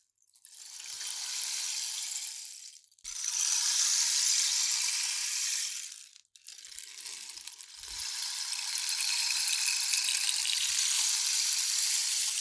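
Rainstick tipped three times: pebbles or beads cascade down its tube in a hissing, rain-like patter. Each pour swells and fades, with short silent gaps after about three and about six seconds, and the last pour is the longest.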